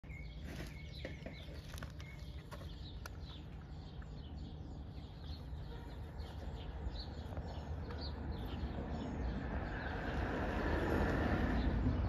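Small birds chirping in short, repeated high calls over a steady low rumble; from about nine seconds in, the noise of an approaching vehicle swells up and becomes the loudest sound.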